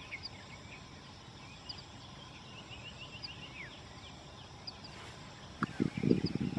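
Several birds singing together, with many short high chirps and quick trills overlapping. About five and a half seconds in, a burst of low, rumbling thumps rises well above the birdsong.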